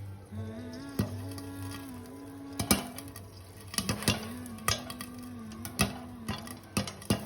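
Popcorn kernels popping: about a dozen sharp, irregular pops, with gaps from a fraction of a second to about a second between them.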